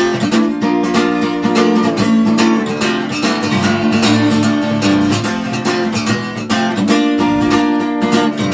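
Acoustic guitar strummed in a steady rhythm, an instrumental run of chords between sung verses.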